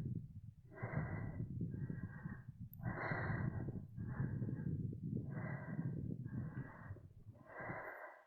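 A hiker breathing hard close to the microphone, with a steady run of in-and-out breaths of about a second each, over a low rumble.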